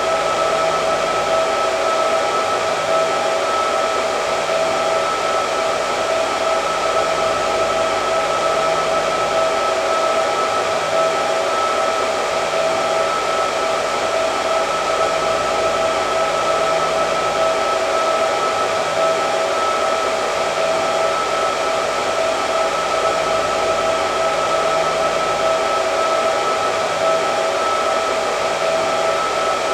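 Electric hair dryer running steadily: a constant rush of air with a steady motor whine in two pitches, one about an octave above the other.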